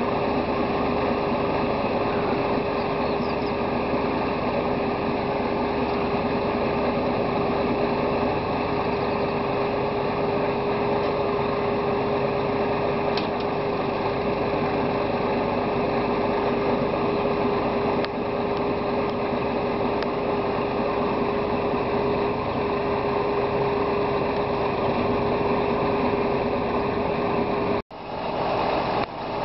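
Machinery running steadily with a constant hum and a noisy wash over it, which drops out abruptly for a moment near the end.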